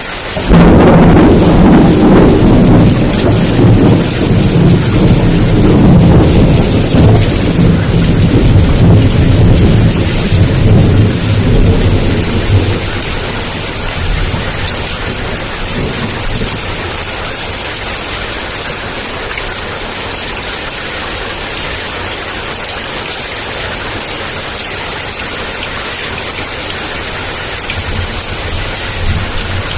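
Heavy downpour with a thunderclap that breaks suddenly about half a second in and rumbles on for some twelve seconds before dying away. The steady hiss of rain continues throughout.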